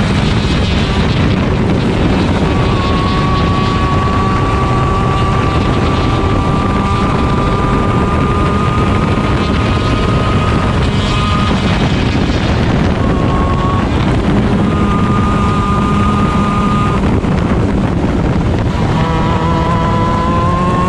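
Stock Honda 125cc two-stroke shifter kart engine running at high revs under racing load, heard onboard with wind buffeting the microphone. The engine note climbs slowly, drops away briefly a few times as the driver lifts or shifts, and climbs hard again near the end as it accelerates.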